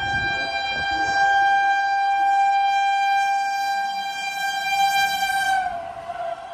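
Passing train's locomotive horn blown in one long steady blast; about five and a half seconds in its pitch drops slightly as the train goes by, and it begins to fade.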